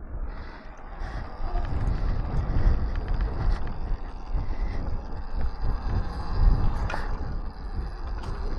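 Wind buffeting the microphone while riding an electric dirt bike over a bumpy dirt trail, with tyre and chassis rattle and a few sharp knocks. There is no engine note.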